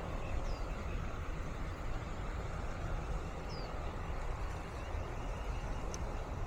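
Steady low wind noise on the microphone with a rustling hiss of breeze. Two brief descending bird chirps come through, about half a second in and again after three and a half seconds.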